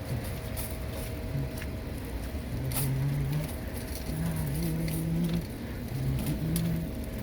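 A car driving: a steady low engine and road rumble with a few sharp clicks, and short, level low hums rising and falling in the middle.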